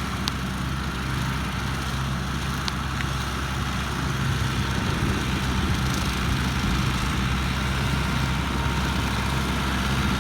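An engine running steadily at an even speed, a low constant hum, with the hiss of rain over it.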